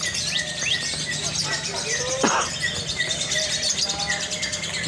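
Lovebirds chirping in a rapid run of short, evenly repeated chirps, about four a second, over other bird chatter, with one louder swooping call about two seconds in.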